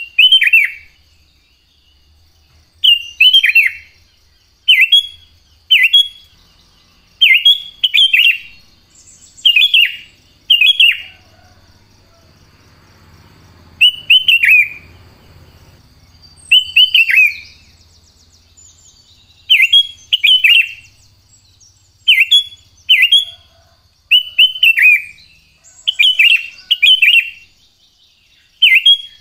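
Sooty-headed bulbul (kutilang) singing: loud, short, falling chirped phrases repeated every second or two, sometimes two in quick succession.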